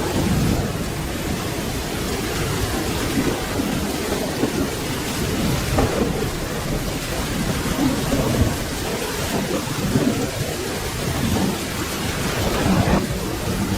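Steady rain with a low rolling rumble of thunder beneath it, swelling slightly near the end.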